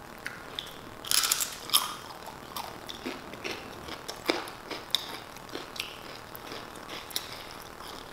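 Close-up chewing and crunching of tortilla chips. A burst of loud crunches comes just after a second in, followed by scattered smaller crunches and mouth clicks.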